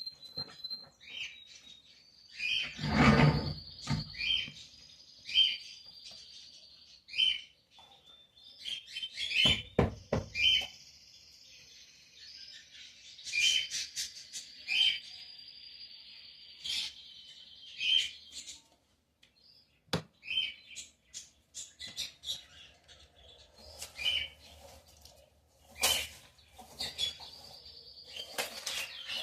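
Small songbirds chirping: a short high chirp repeated about once a second, with stretches of a steady high trill running under it. A loud thump about three seconds in and a brief clatter around ten seconds cut across the birdsong.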